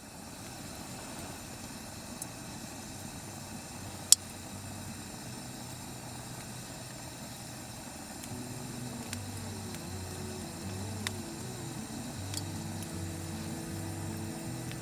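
Steady rushing background noise with a few sharp clicks, one louder near the middle. Soft music with a low, repeating note fades in about halfway through.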